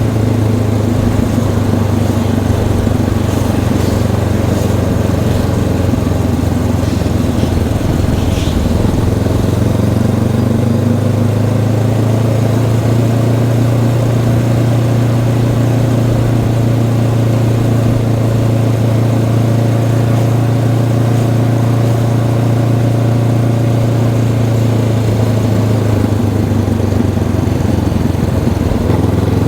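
Honda CB500X's parallel-twin engine running at fairly steady revs while the bike is ridden, through its stock exhaust.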